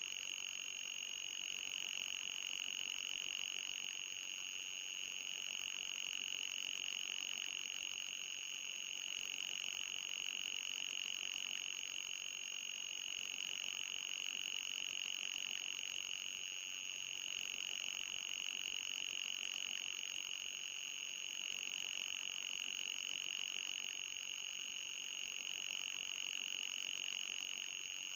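Electronic anti-mosquito repellent sound effect: a steady, high-pitched synthetic tone, with a fainter, higher tone above it.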